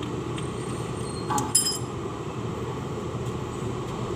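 A single sharp metallic clink about one and a half seconds in, ringing briefly, as a steel engine part or tool is knocked or set down, over a steady low background hum.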